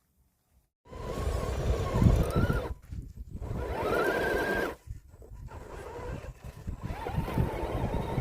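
Traction Hobby Mercedes Brabus G550 4x4² RC scale crawler driving, its electric motor and gearbox whining up in pitch twice under throttle and holding, with the tyres crackling over rough ground in the second half.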